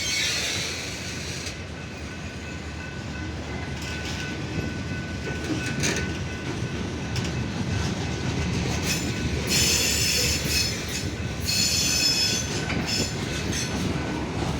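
Freight train cars rolling past with a steady rumble of steel wheels on the rails, and the wheels squealing twice, about ten and twelve seconds in.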